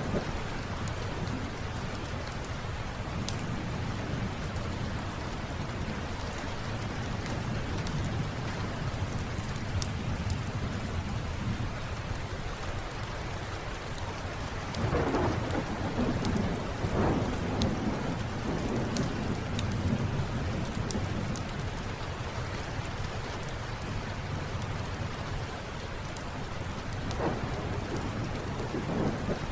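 Steady rain with a low rumble of thunder that swells louder about halfway through and rolls on for several seconds. Scattered sharp crackles from a wood fire run through it.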